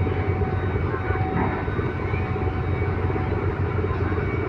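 Steady low engine drone of a passenger ferry under way, heard on board.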